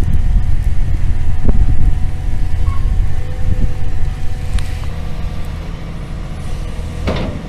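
A vehicle engine running steadily, a low rumble that eases off after about two seconds, with a short knock near the end.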